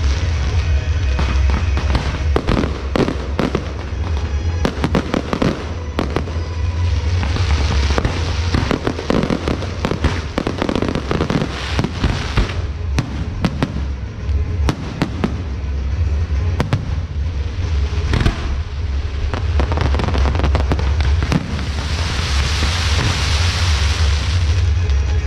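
Fireworks going off in quick succession: many sharp bangs and cracks, thinning out in the middle, then a dense hissing crackle near the end. Music plays underneath.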